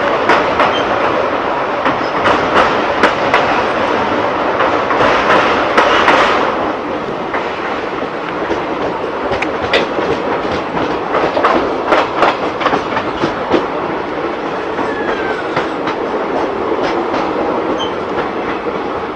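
Utkal Express passenger coach running at speed, wheels clattering over the rail joints with a steady rumble and frequent sharp clicks. Louder for about the first six seconds while crossing a bridge, then somewhat quieter on the open track.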